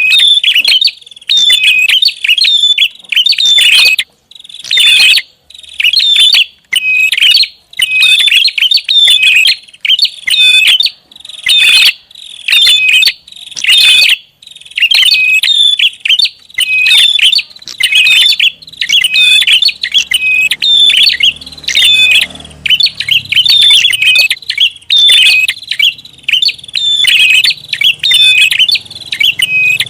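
Prinia calling loudly and agitatedly, with rapid chirping phrases repeated in quick bursts without pause: a lure call used to draw in prinias.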